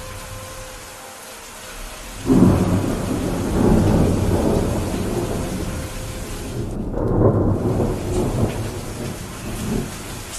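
Steady rain hiss with a thunderclap about two seconds in that rolls on as a deep rumble. The rumble swells again around seven seconds and fades near the end.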